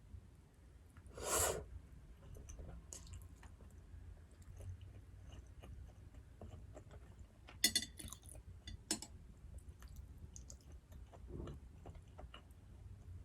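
Close-miked chewing of black bean noodles and fried dumplings, with soft wet mouth sounds throughout. There is one loud noisy burst about a second in, and a few sharp clicks past the middle.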